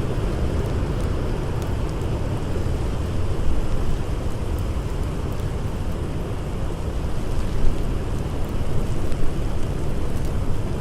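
Blizzard wind blowing steadily with a deep rumble, with faint crackles of a campfire now and then.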